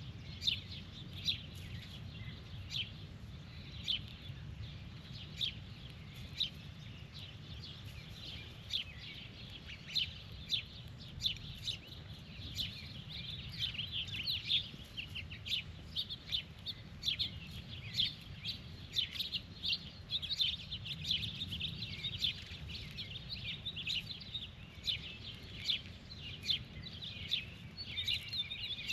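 Birds chirping, with many short quick chirps that overlap and come thickest in the middle stretch, over a steady low rumble.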